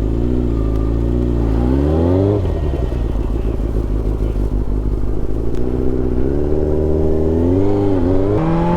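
Yamaha R6's inline-four engine running, its revs rising and dropping twice, then climbing steadily near the end.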